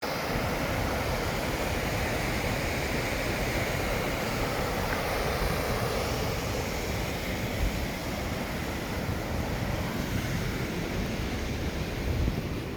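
Steady, unbroken rush of falling water, the constant noise of a waterfall.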